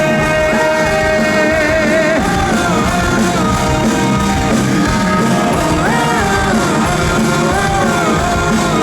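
Live rock band playing loud, with drums and bass driving under a melody line; a long held note rings for about the first two seconds.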